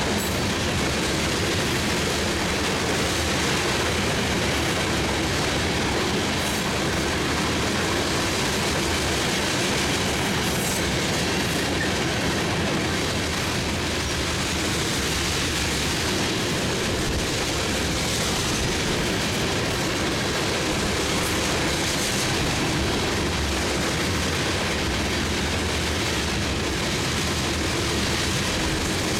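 A long freight train of tank cars rolling past, its steel wheels running steadily on the rails with no letup.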